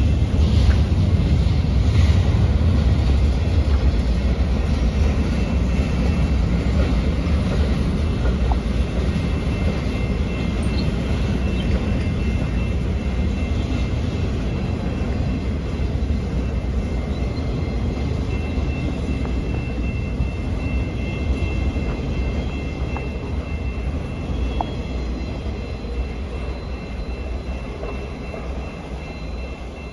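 CN freight train's boxcars and covered hoppers rolling past: a steady low rumble of wheels on rail, with faint steady high-pitched tones above it, slowly getting quieter toward the end.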